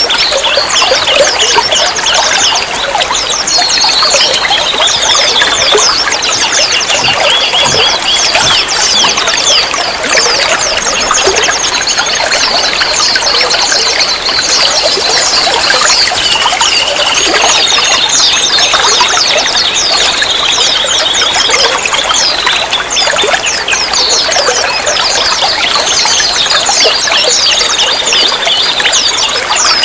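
Water trickling and pouring steadily, with rapid high chirps and a few held, thin high notes sounding over it throughout.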